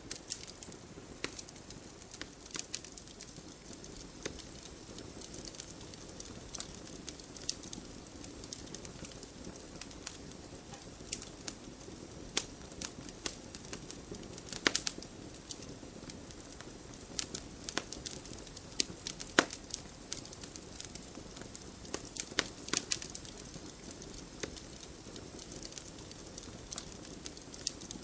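Wood fire burning in a fireplace: irregular sharp crackles and pops over a steady low rush of flame, with the loudest pops about halfway through and again a little later.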